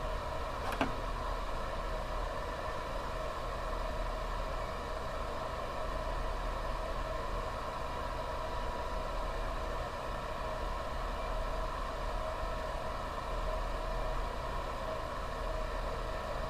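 Steady background hum with several steady tones, and a single sharp click about a second in.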